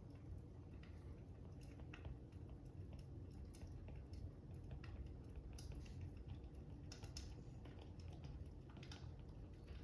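Faint crackling fire: irregular small pops and snaps over a steady low rumble.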